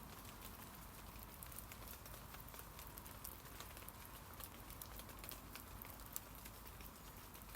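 Rain falling on tree leaves: a faint, steady hiss with many small, irregular ticks of drops striking the leaves.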